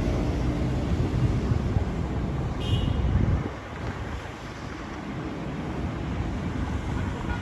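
Street traffic under wind gusting on the microphone. The low rumble is heavy for the first few seconds and eases suddenly about three and a half seconds in, and a short high squeak sounds just before it eases.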